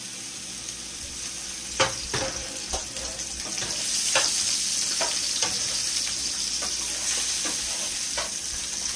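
Sausages frying in a buttered pan, a steady sizzle that grows louder about four seconds in, with a utensil clicking against the pan several times as the food is stirred.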